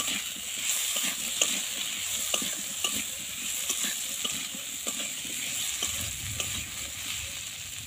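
Cubed potato, pumpkin and green banana frying in oil in a wok, with a steady sizzle, while a metal spatula stirs them and scrapes the pan in irregular clicks and scrapes.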